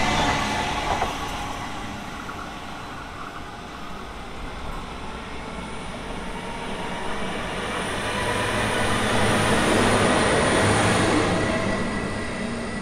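Diesel passenger railcars passing on the line: the first fading as it runs away, then a second set approaching with a steady engine drone and wheel noise, loudest about ten seconds in, before fading again.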